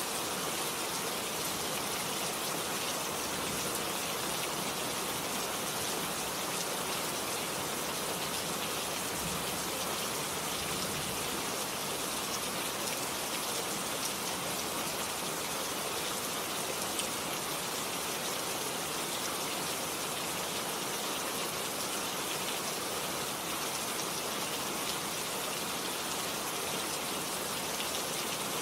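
Rain falling steadily, an even hiss with no pauses or changes.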